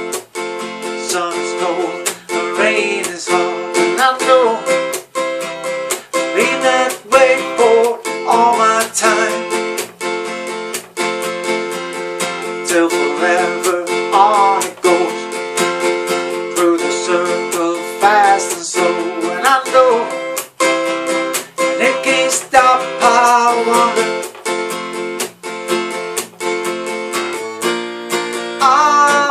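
Acoustic guitar strummed in a steady rhythm through an instrumental passage of the song, with a melody line over the chords.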